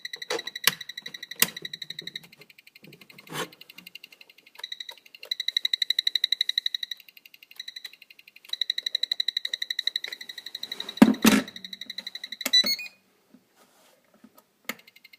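A Spektrum DX4e radio-control transmitter's buzzer beeping in a fast stream of short high-pitched beeps, in stretches, even though the transmitter is switched off: a fault. About 11 seconds in there is a loud clunk of the transmitter being handled, then a short rising chirp, and the beeping stops for about two seconds before starting again at the end.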